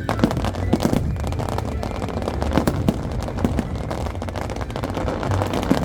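Aerial fireworks barrage: many bangs and crackles in rapid succession over a low rumble, with no break.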